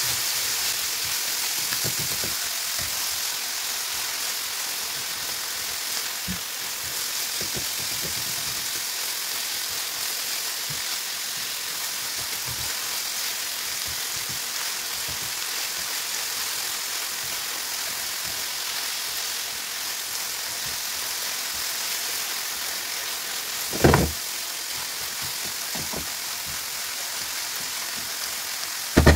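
Ground meat with chopped green pepper and onion sizzling steadily in a nonstick frying pan as it is stirred with a silicone spatula, with a sharp knock near the end.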